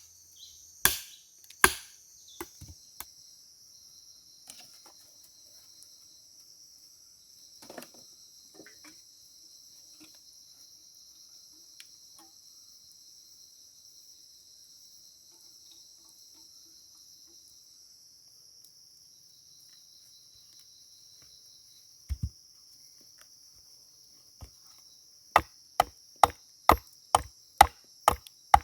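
Wood being chopped with a blade: a few strikes about a second apart, then a long pause, then a steady run of chopping at about two strokes a second near the end. Insects chirr steadily underneath.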